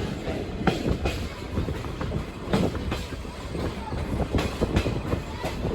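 Passenger train car rolling along the track: a steady low rumble with irregular clacks and knocks from the wheels and couplings.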